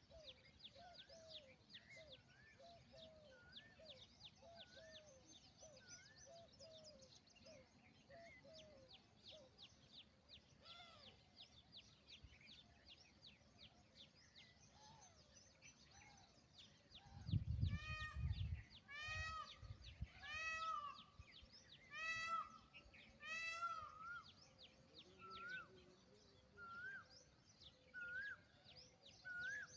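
Small birds chirp faintly for the first half. About halfway through, an Indian peafowl gives a series of five loud, arcing calls about a second and a half apart, with a brief low rumble at the first. Fainter, shorter call notes follow about once a second.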